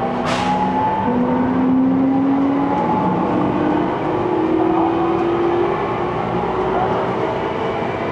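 Cabin sound of an E231 series electric commuter train running on the line: a steady rumble of wheels on rail under a motor whine that rises slowly in pitch. A sharp clack comes about a quarter second in.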